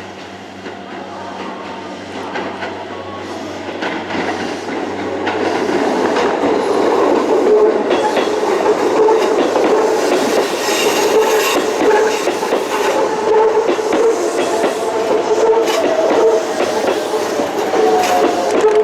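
Electric commuter train running along the track: wheels clacking over rail joints, with a steady whine. It grows louder over the first six seconds, then keeps running close by.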